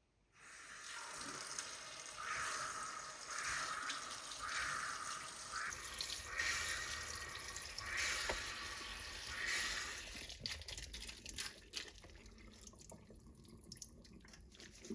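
Water running and splashing, swelling about once a second for several seconds, then settling into quieter splashes and light clicks for the last few seconds.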